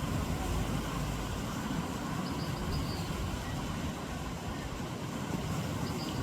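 A steady low rumble, with a few faint high chirps about two seconds in and again near the end.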